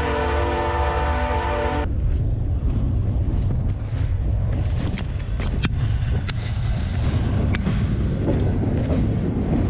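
Freight locomotive air horn sounding a multi-note chord that cuts off sharply about two seconds in. Under it and after it, the steady low rumble of the moving freight train, with several sharp metallic clicks and squeaks.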